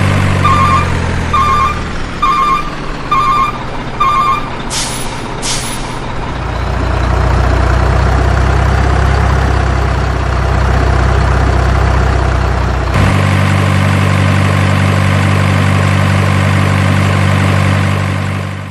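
Heavy truck engine idling while a reversing alarm beeps five times, followed by two hisses from the air brakes. The engine then runs deeper and louder for several seconds before settling back to an idle.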